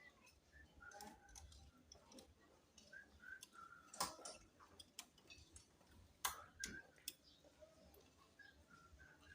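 Faint scattered clicks and ticks in a quiet room, with two louder sharp clicks about four and six seconds in.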